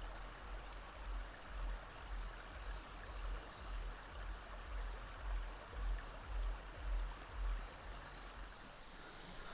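Steady outdoor rushing noise, like a stream, with repeated low gusts of wind buffeting the microphone that die away near the end.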